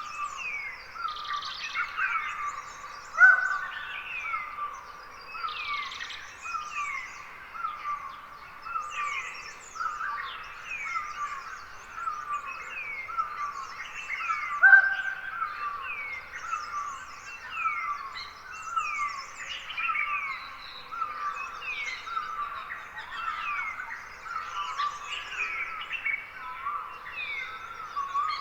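Forest birds chirping at dawn: a continuous chorus of many short, quick, downward-sliding notes, with a couple of louder calls standing out, about three seconds in and again about fifteen seconds in.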